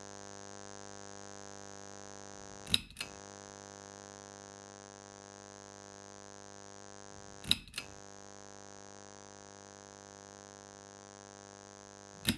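A steady, quiet synthesized drone of many held tones, with a sharp double hit three times, about five seconds apart; it cuts off suddenly just after the last hit.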